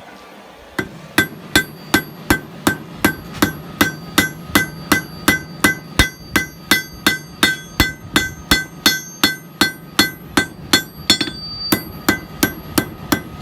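Hand hammer striking hot high-carbon leaf-spring steel on an anvil: a steady run of blows, about two and a half a second, starting about a second in, each with a ringing note. A steady low hum runs underneath.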